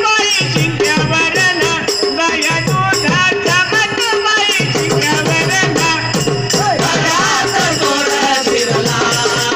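Marathi devotional bhajan music: singing over a fast, steady jingle of small hand cymbals.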